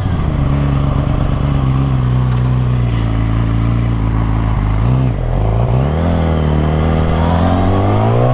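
Yamaha R6 sport bike's inline-four engine running steadily while ridden, dipping briefly about five seconds in, then revving up with a smoothly rising pitch.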